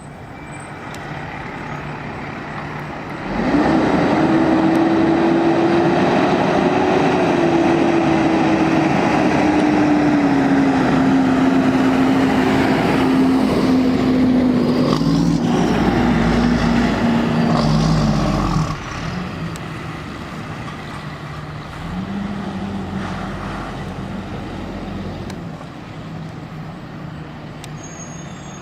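Fire truck going by close, its loud engine noise carrying a steady low drone that slowly drops in pitch for about fifteen seconds, then cuts down suddenly to quieter engine noise.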